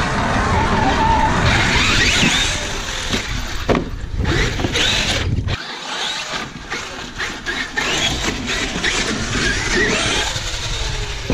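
Brushless electric motors of RC monster trucks whining as they rev up and down, with the noise of tyres over wet sand. A low rumble runs under the first half and drops away about halfway through.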